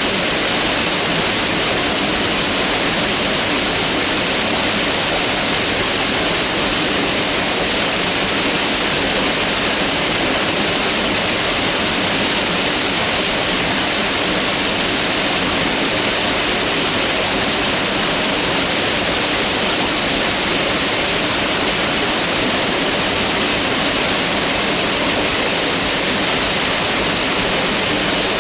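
Mountain river rushing steadily, a dense even roar of fast water over rocks.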